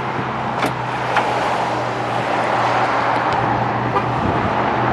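Steady low mechanical hum from a GMC Sierra 1500 Denali pickup, with two sharp clicks about half a second and a second in.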